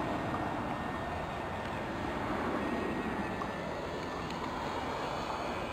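Twin electric motors and propellers of a Dynam Grand Cruiser RC airplane droning steadily in flight, with a steady background hiss.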